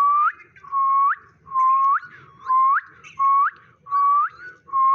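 A whistled call repeated about seven times at an even pace. Each note holds a steady pitch, then sweeps sharply upward at its end.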